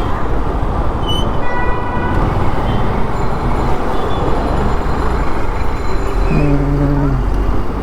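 Steady wind and engine noise of a single-cylinder Suzuki Gixxer FI ABS motorcycle riding through city traffic, heard from a bike-mounted camera. A vehicle horn sounds briefly about a second and a half in.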